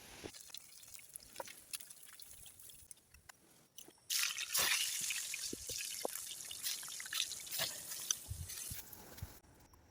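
Liquid dripping and trickling, with scattered sharp clicks; about four seconds in, a louder steady hiss sets in and carries on until near the end.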